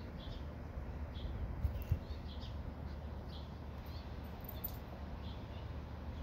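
Short, high chirps repeated about once a second at an uneven pace, bird-like, over a steady low rumble.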